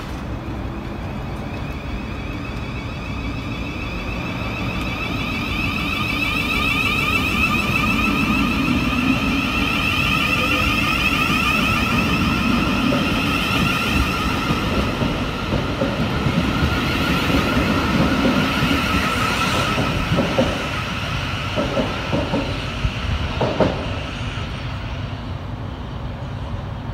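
Electric passenger train running at the platform, its traction motors giving a steady whine at two pitches over a low rumble. A few clicks of wheels over rail joints come near the end.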